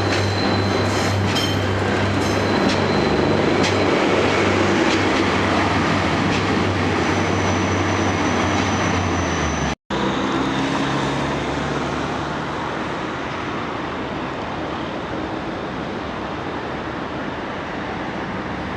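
Train running on the rails, with a steady low drone and a few sharp wheel clicks. About ten seconds in the sound cuts out for an instant and carries on quieter and without the drone.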